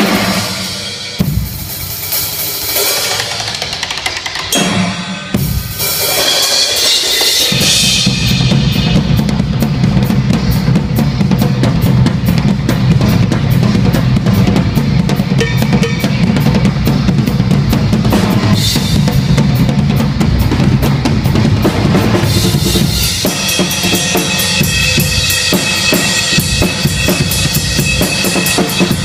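Live rock drum kit solo: separate drum and cymbal hits at first, then about eight seconds in a fast, continuous barrage of low drum strokes, with cymbals coming forward again near the end.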